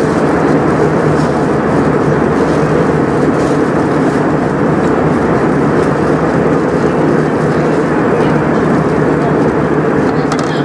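Steady roar of engine and airflow noise inside the cabin of an Airbus A320, holding an even level throughout.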